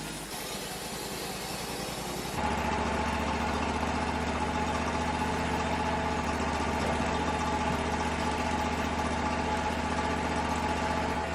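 Wood-Mizer LT35 sawmill's engine running steadily. About two seconds in the sound changes suddenly and becomes louder and steadier.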